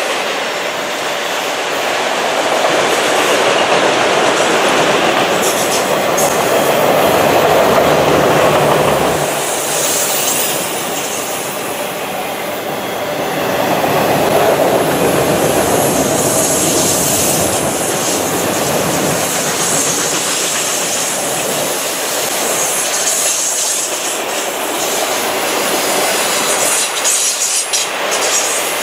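Autorack cars of a freight train rolling past, their steel wheels on the rails making a continuous rumble and clatter that swells and eases, with high wheel squeal coming and going.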